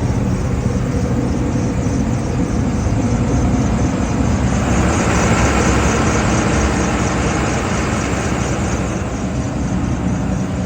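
The rebuilt diesel engine of a 2007 Bobcat track loader being cranked on its new starter, turning over steadily with an even ticking but not catching. It is a failed start on an engine that sat unused for seven years.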